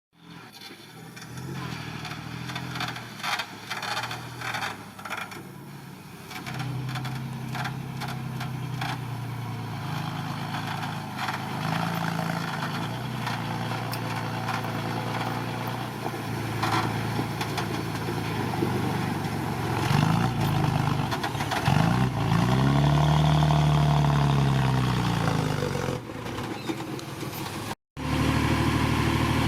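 Heavy earthmoving machine's diesel engine working under load, with metallic clanking through the first few seconds. Around two-thirds of the way in the engine revs up and falls back in pitch twice. The sound drops out briefly near the end.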